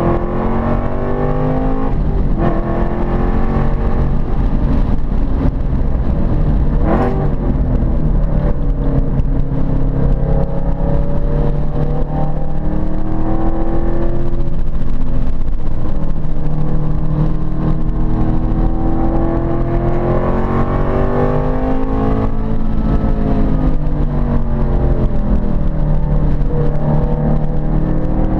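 Ford Boss 302 Mustang's 5.0-litre V8 being driven hard around a race track. The engine note climbs and falls again and again as the car accelerates, shifts and slows for corners, with a sharp change in pitch about seven seconds in.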